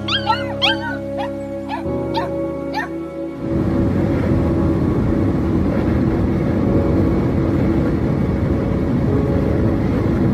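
Over background music, a young animal gives a quick run of short, high-pitched yipping cries for the first three seconds. From about three and a half seconds in, a louder, dense rough noise takes over.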